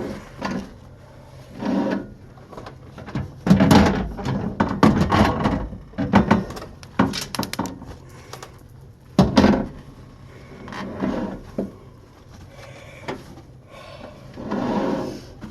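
Wiping steam-loosened grime out of a microwave: irregular rubbing strokes with occasional knocks and clunks against the oven's interior, busiest a few seconds in.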